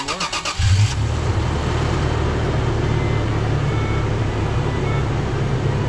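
Toyota FJ Cruiser's V6 engine catching after a brief rapid cranking, with a loud burst about half a second in, then running steadily with a low rumble.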